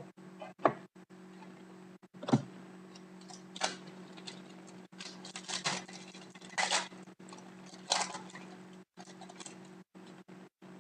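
Hockey trading cards and foil pack wrappers being handled: short, irregular rustles, slides and taps, with a sharper tap a couple of seconds in, over a steady low electrical hum.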